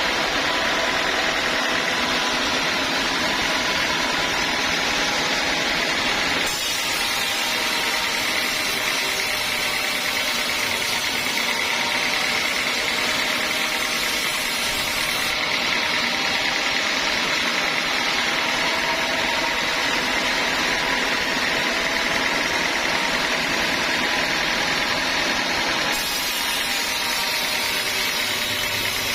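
Homemade band sawmill running steadily: a constant mechanical din with a faint steady whine.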